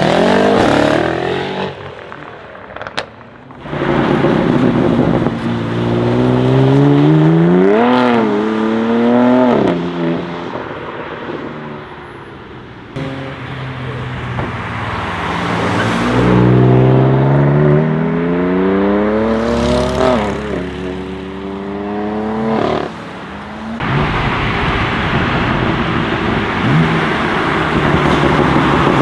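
BMW M4 F82's twin-turbo straight-six with an Akrapovic titanium exhaust accelerating hard twice, the revs climbing and dropping back at each upshift.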